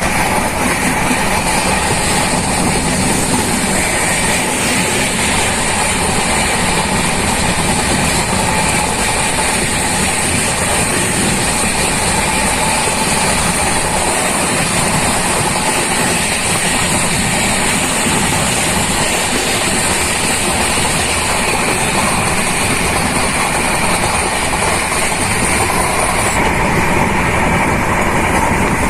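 Passenger train running along the track, heard from on board: a steady rumble and wheel-on-rail noise from the moving coach.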